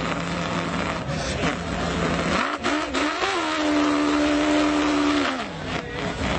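A person imitating a car engine with his voice: a low steady idle hum, then about two and a half seconds in a quick rev up to a higher held note for about two seconds, dropping back near the end, with scattered pops and clicks.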